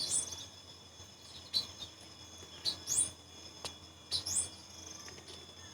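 Forest insects trilling steadily while a bird repeats a short rising chirp about every second and a half. A few faint clicks of the trap's sticks being handled.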